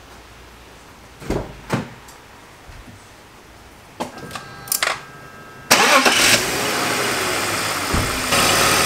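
A few clicks and faint short tones, then a BMW car engine cranks and catches about six seconds in and settles into a steady idle. A thump comes near the end.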